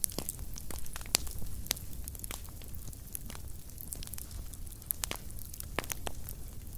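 Fire burning in a fireplace, crackling with irregular sharp pops several times a second over a steady low rumble of flames; the loudest pop comes about a second in.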